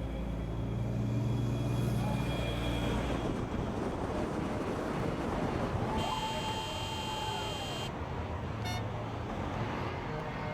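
Road traffic noise: a vehicle engine's steady low hum for the first few seconds, then general traffic rush, with a held tone sounding for about two seconds midway.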